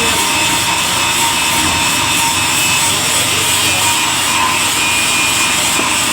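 Mahindra DI 475 tractor's diesel engine running loud and steady, close to the microphone.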